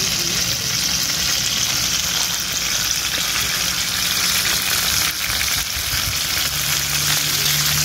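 A whole duck frying in hot oil in a wide pan over a wood fire, sizzling steadily.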